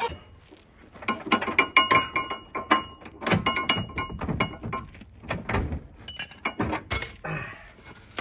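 Removed front radius arm from a 2007 Ford Territory being worked by hand: a run of creaks and clicks with short squeaky tones and a few knocks. This is the noise a worn radius arm bush makes, the source of the front-end squeak.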